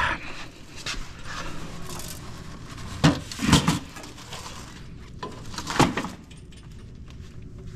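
Metal parts of a computer rack knocking and clinking as it is taken apart by hand: a few sharp knocks about three seconds in and another near six seconds, with light rattling between.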